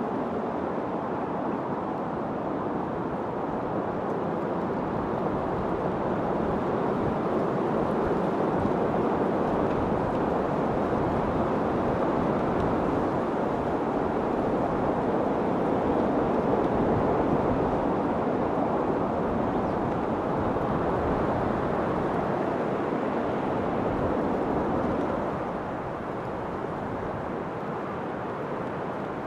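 Wind blowing in a steady rush that slowly swells and eases, dropping back a few seconds before the end.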